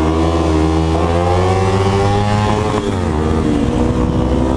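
Motorcycle engine accelerating, its pitch climbing steadily, then dropping sharply about three seconds in as the throttle eases or it shifts up, then running steadily at speed.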